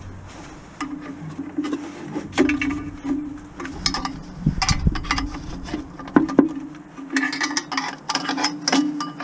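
Small power-tool motor buzzing in short on-off bursts, with repeated metallic clicks and knocks of tools on parts.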